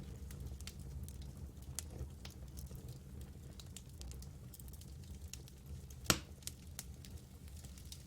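Campfire burning, wood crackling with scattered small pops over a low steady rumble, and one louder snap about six seconds in.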